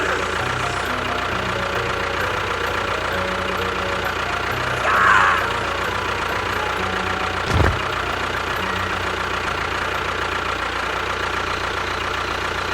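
A small tractor engine running steadily, with a brief higher-pitched sound about five seconds in and a single thump at about seven and a half seconds.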